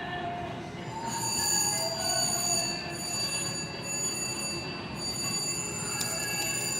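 Slot machine din on a casino floor: steady electronic ringing tones and short chiming melodies from the machines.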